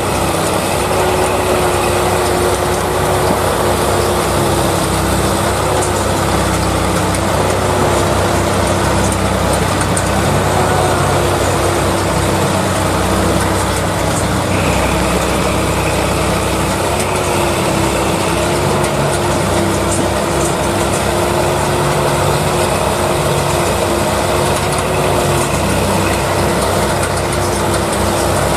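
Tractor engine sound running steadily, a continuous even drone with a slightly wavering tone.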